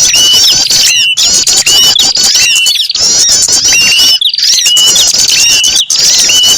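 Bird-lure recording of many small birds chirping and trilling at once in a dense, shrill chorus, with one hooked whistle note that rises and then holds repeating about once a second.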